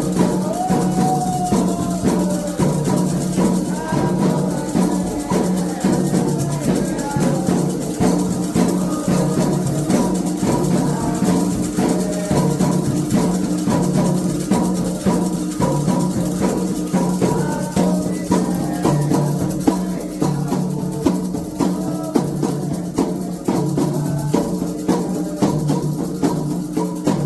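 Candomblé ceremonial music: atabaque hand drums and shaken rattles playing a fast, steady rhythm, with voices singing over them.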